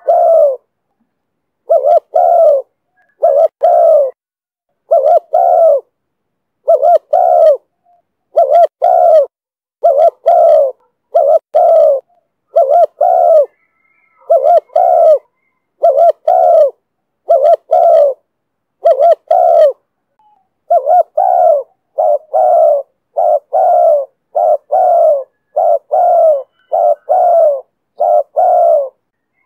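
Spotted dove cooing: short coos, each a quick pair of notes, repeated about once a second in a steady series, with one brief pause about two-thirds of the way through.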